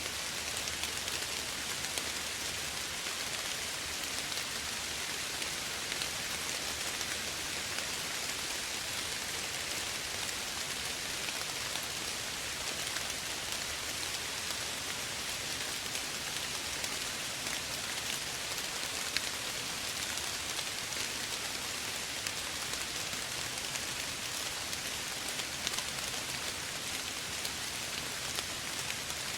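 Steady gentle rain falling on surfaces, an even hiss with many fine drop ticks.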